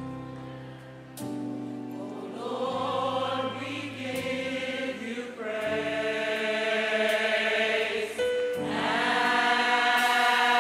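Large gospel choir singing with keyboard accompaniment. Sustained keyboard chords open, the choir comes in about two and a half seconds in, and the sound builds louder towards the end.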